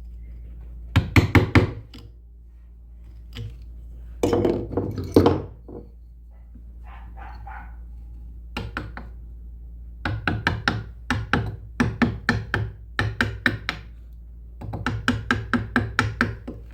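Hammering on wood: several runs of quick, even wooden knocks, about four or five a second, the longest in the second half.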